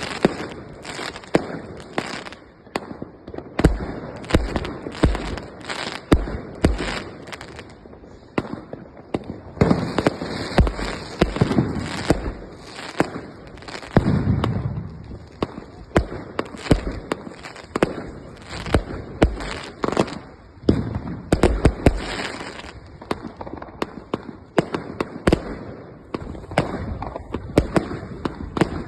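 Fireworks going off: an irregular, dense string of sharp bangs, some louder and closer than others, with a thick cluster of loud bangs about two-thirds of the way through.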